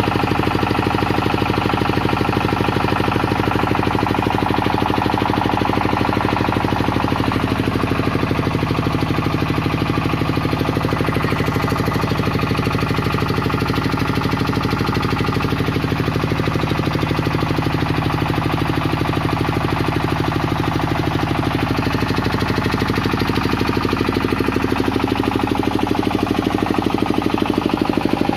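Tianli 28 hp diesel engine of a 20 kVA generator set running steadily, with a fast, even firing beat.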